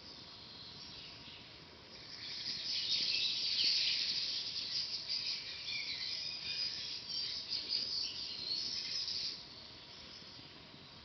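A songbird singing a long, fast twittering song, starting about two seconds in and stopping about two seconds before the end, over a faint steady high-pitched background.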